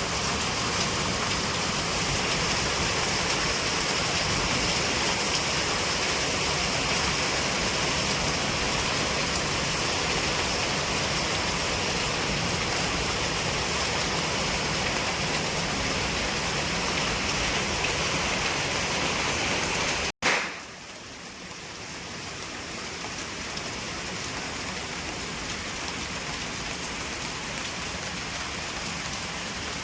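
Steady rain falling, an even hiss of drops. About two-thirds of the way through it breaks off for an instant with a short jolt, then carries on a little quieter.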